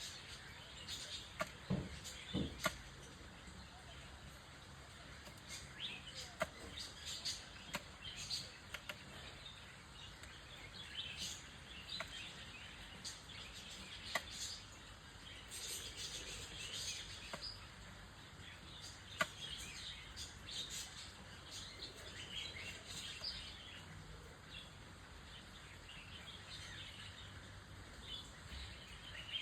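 Birds chirping and calling in short, scattered high notes throughout, with a few sharp clicks, over a steady background hiss.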